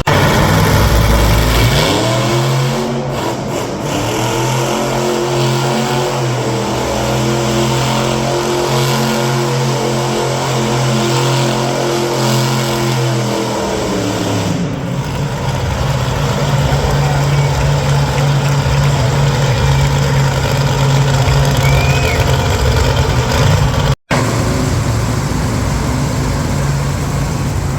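Monster truck engine revving hard: the pitch climbs about two seconds in, holds high for about ten seconds, then drops back to a lower, steady loud drone. The sound cuts out for an instant near the end.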